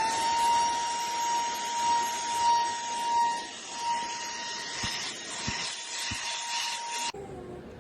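SERVOMASTER cordless handheld vacuum cleaner running: its motor holds a steady high whine over rushing air, then stops abruptly about seven seconds in. A few faint knocks come shortly before it stops.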